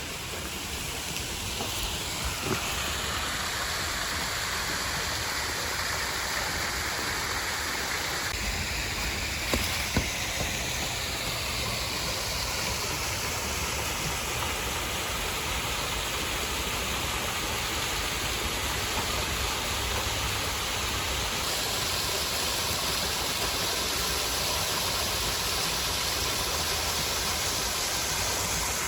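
Steady rushing of a waterfall, water pouring over rocks, with a couple of brief knocks in the first ten seconds.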